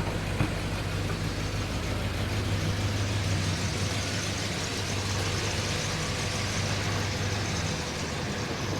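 A big Chrysler New Yorker's engine idling steadily as the car creeps into a parking space, a low even hum.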